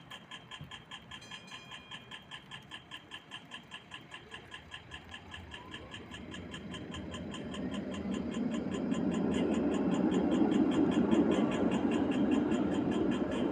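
Rapid, steady electronic ticking of a pedestrian crossing signal. A vehicle's low rumble builds from about six seconds in and is loudest near the end.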